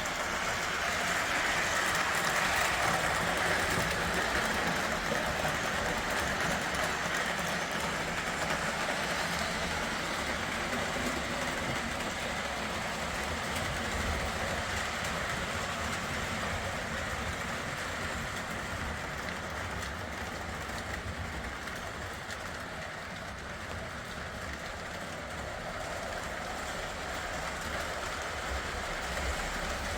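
O gauge model trains running around the layout: a steady rolling whir of electric motors and metal wheels on the track, a little louder in the first few seconds.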